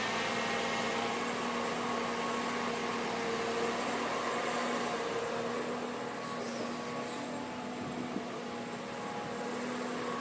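Diesel engine of heavy earthmoving machinery running steadily, a constant hum over engine noise.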